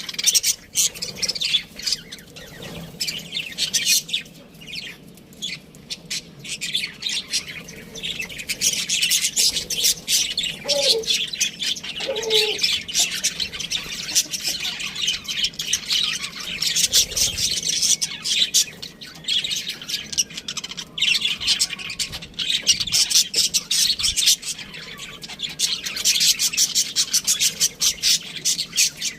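Budgerigars chirping and chattering in a dense, continuous stream of rapid high chirps.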